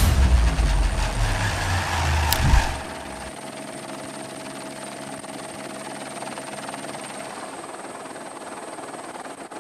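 A loud low rumble that drops away abruptly about three seconds in, leaving a steady mechanical drone.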